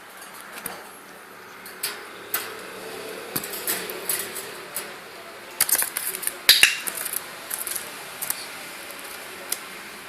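Irregular sharp clicks and taps of hard objects knocking together, with the loudest cluster about six and a half seconds in.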